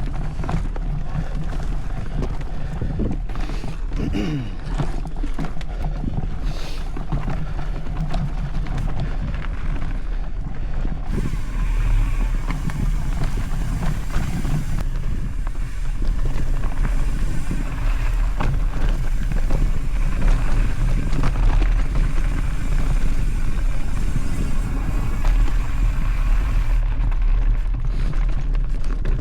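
Mountain bike rolling along a dirt singletrack trail: steady tyre rumble with rattling from the bike, and wind buffeting the microphone.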